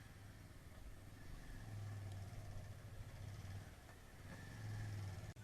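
Faint low rumble of a vehicle engine running, swelling louder twice.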